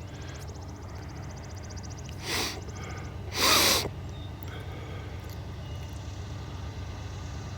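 Two short, breathy rushes of air, like a person sniffing or snorting close to the microphone, about a second apart, the second louder and longer, over a steady low hum.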